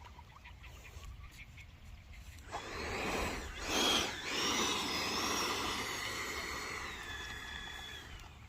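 Electric ducted-fan whine of a Freewing MiG-29 RC jet's twin fans, coming in about two and a half seconds in and climbing steeply in pitch around four seconds. It then holds high with a slowly falling pitch and fades toward the end.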